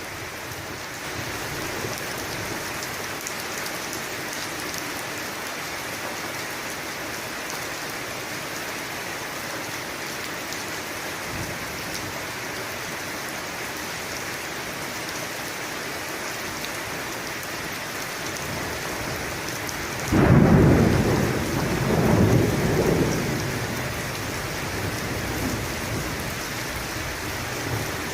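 Steady rain falling, with a loud thunderclap about two-thirds of the way through that rumbles on with a second swell before dying back into the rain.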